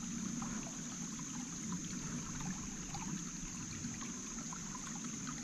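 Water of a small creek trickling steadily, with a steady high-pitched hiss above it and a few faint ticks.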